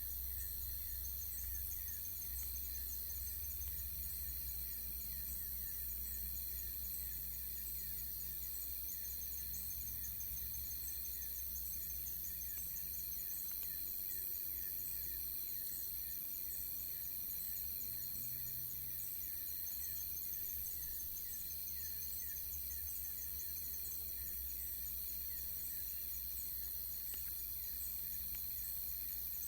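Insects, crickets or similar, chirping in steady, fast, even pulses, over a continuous low rumble.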